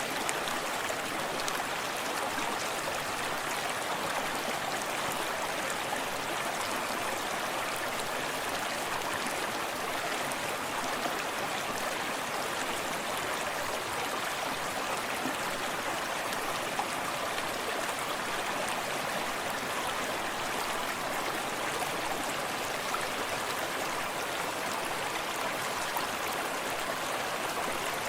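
Small forest stream running steadily over rocks, a constant rushing wash of water with close trickling and lapping.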